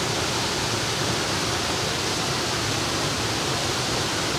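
Jadipai waterfall's water falling and splashing, a steady, even rush of noise with no change in level.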